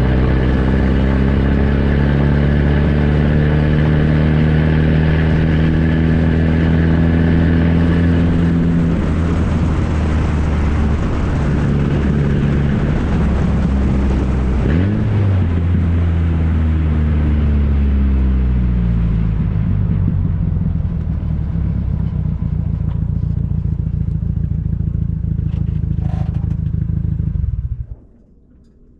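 1994 Ford Ranger's 2.3-litre four-cylinder running with no muffler, a straight-piped exhaust note that falls and rises in pitch as engine speed changes. It stops abruptly about a second before the end.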